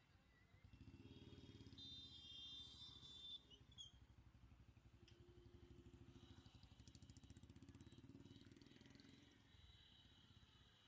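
A motor vehicle's engine running with a rapid low throb that starts just under a second in and fades near the end. A high-pitched tone rides over it around two to three seconds in, and there are a couple of sharp clicks.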